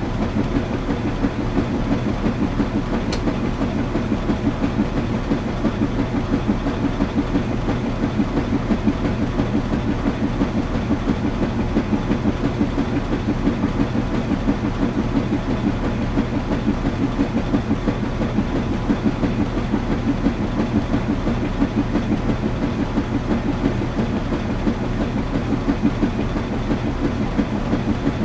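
Washing machine running, a steady low hum under a fast, even rhythmic churning, with one sharp click about three seconds in.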